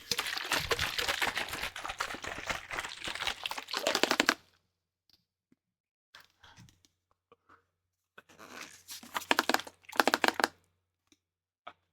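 Close-miked crackling and crinkling of a plastic spray bottle being handled, in two bursts: a long one at the start and a shorter one a little after the middle, with faint ticks between them.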